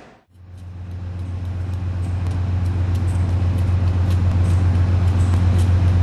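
Steady low rumble and hum of a moving Amtrak passenger train, fading in after a brief dropout and growing louder, with faint scattered clicks and rattles.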